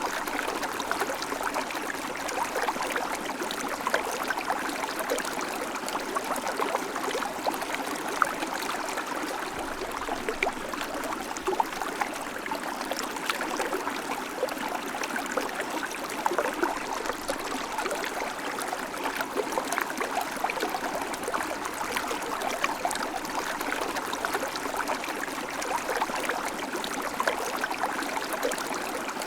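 River water flowing steadily over stones, a continuous rushing and babbling with small splashes throughout.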